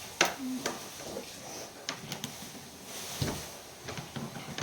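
A few light knocks and clicks, like objects being handled and set down, with faint voices in the background.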